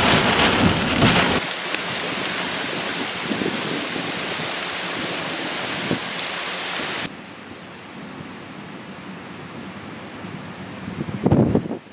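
Steady hiss of heavy rain, with gusty wind at the start. About seven seconds in it cuts abruptly to a quieter background hiss, and wind buffets the microphone near the end.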